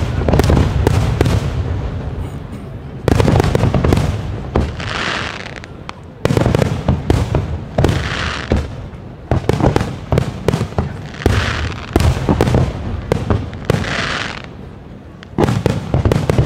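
Fireworks display: a volley of booming bursts about every three seconds, each followed by a run of sharp crackling bangs and a short hissing rush.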